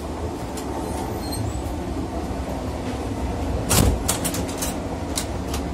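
Steady rumble of a moving passenger train heard from inside the carriage, with one loud knock a little under four seconds in followed by several sharp clicks and rattles.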